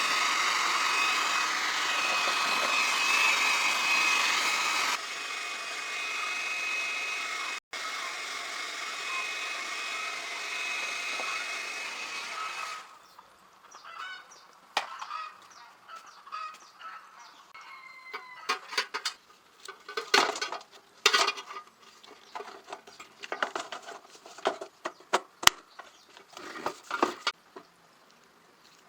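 A small motor runs with a steady whir for about 13 seconds, drops in level about 5 seconds in, then stops; scattered clicks and knocks follow.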